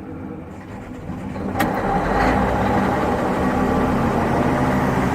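Diesel engine running, picking up to a louder, steady run about a second and a half in, with a sharp click as it does.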